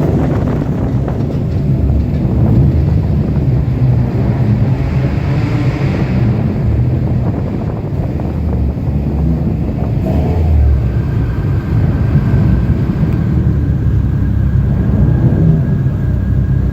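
Cars pulling out of a car meet, their engines and exhausts making a continuous loud low rumble.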